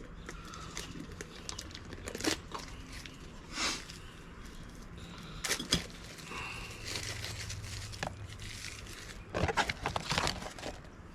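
Irregular handling noises: rustles, crinkles and short knocks, with a cluster of louder ones about nine to ten seconds in.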